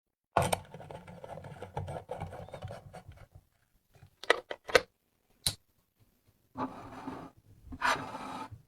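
Handling sounds from working on the lamp: stretches of rubbing and scraping, with a sharp click at the start and a few quick clicks in the middle.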